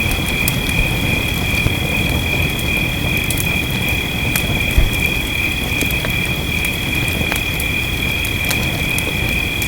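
Fireplace crackling with scattered sharp pops and one heavier thump near the middle, over a steady rush of rain. A constant high-pitched two-note whine sits on top of it.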